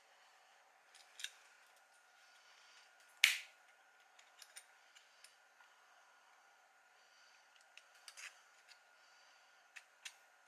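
Sharp snips and clicks of small hand tools cutting and handling 3D-printed plastic parts: one loud snip about three seconds in, with fainter clicks scattered through the rest.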